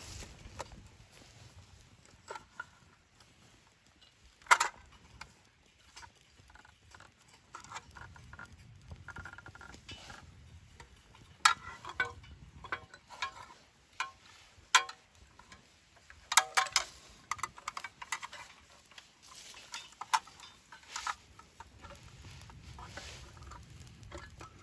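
Irregular knocks, clicks and light clatter of camp gear being handled, with a few sharper knocks standing out.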